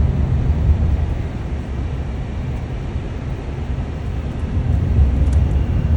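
Car being driven: a steady low rumble of engine and road noise, easing a little in the middle and swelling again about five seconds in.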